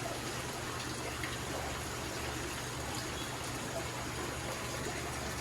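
Steady water trickle of an aquarium's filtration running, with a low pump hum underneath.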